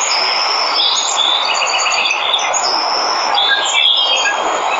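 Steady rush of a waterfall with jungle birds chirping over it: several short high whistled notes, and a quick run of repeated chirps about two seconds in.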